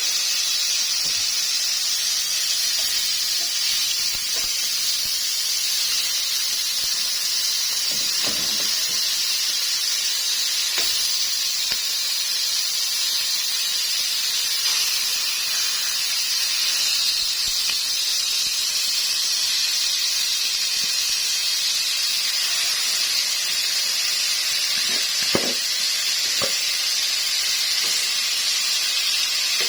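Chicken pieces sizzling steadily in a hot, lightly oiled pan, the searing sound of meat grilling uncovered. A couple of faint knocks near the end.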